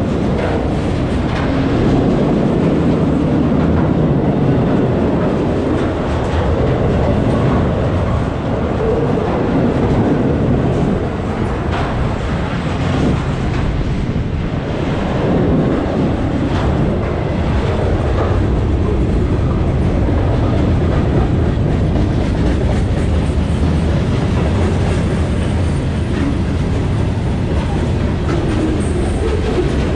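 Freight train cars rolling past close by: a steady, loud rumble of steel wheels on the rails, with occasional clacks.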